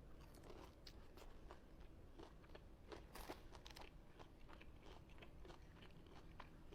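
Faint crunching and chewing of crispy Wingstop fried chicken, with small irregular crackles and clicks throughout.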